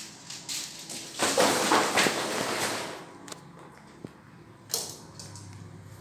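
Fridge packaging being handled: a loud crackling rustle lasting about two seconds, then a few sharp clicks and taps.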